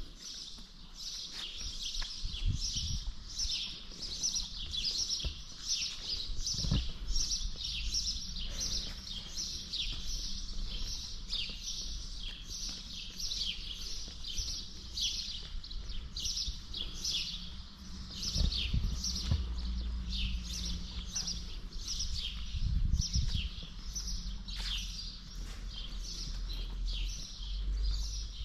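Birds chirping outdoors: a continuous series of short, high, falling chirps, about two a second, over a low rumble.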